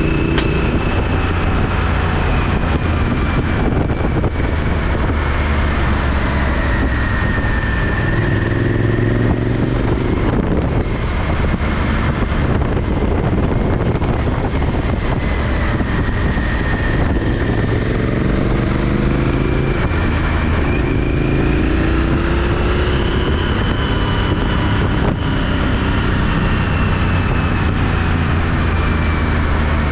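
Honda Varadero XL1000's V-twin engine running under way, its pitch rising and falling as it pulls through the gears, under a steady rush of wind noise.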